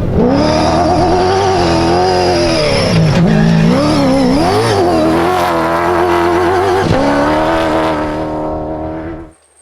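Rally vehicle engine at high revs, its pitch rising and falling as the driver works the throttle through the gears. The sound jumps abruptly about 7 seconds in and drops away sharply near the end.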